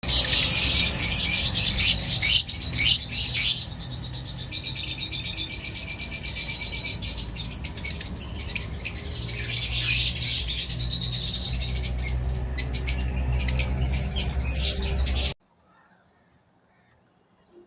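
Parrots chattering and chirping, many calls overlapping in a dense high-pitched din over a low hum, which cuts off suddenly about fifteen seconds in.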